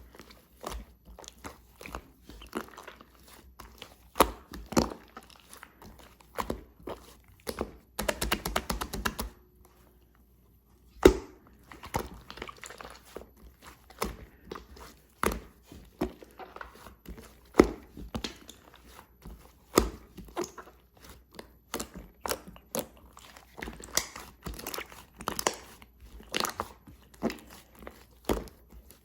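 Close-up crunching, crackling and clicking of material being mixed and pressed by hand, with irregular sharp clicks. About eight seconds in there is a brief fast flurry of clicks, followed by a short pause.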